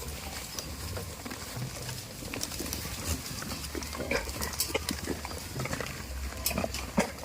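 Farm goats making short, irregular noises, with sharp clicks and knocks among them that grow busier after about four seconds, over a low steady rumble.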